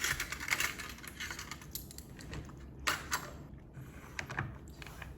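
Typing on a computer keyboard: a quick run of key clicks, then slower, scattered keystrokes.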